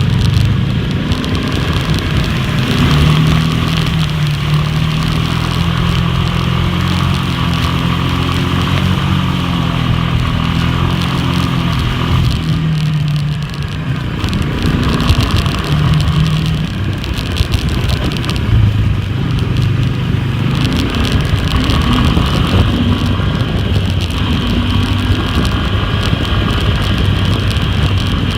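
Four-wheeler (ATV) engine running under way, its pitch going up and down with the throttle, higher for a stretch early on and lower later.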